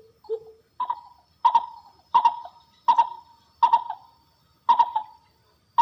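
Zebra dove (perkutut) calling: a regular series of about seven short, sharp cooing notes, a little under one a second, after a couple of softer low notes at the start.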